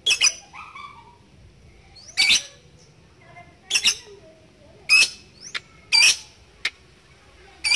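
Lovebird giving short, sharp, high-pitched squawking calls, about eight of them spaced roughly a second apart, some in quick pairs.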